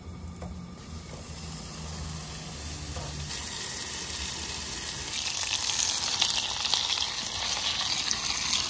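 Bacon-wrapped lake trout pieces frying in a small saucepan on a camp stove. The sizzle picks up about three seconds in and grows louder and more crackly from about five seconds. A low hum runs under the first three seconds.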